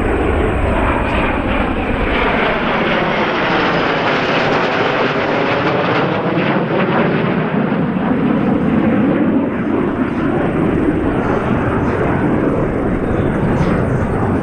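EA-18G Growler's twin jet engines running loud and steady through a pass, the roar's tone sweeping down and back up as the jet moves.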